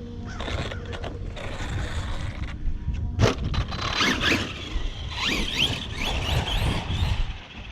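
Arrma Kraton 4S RC truck's brushless motor whining under throttle, a sharp knock about three seconds in, then several quick rising and falling whines as the throttle is blipped.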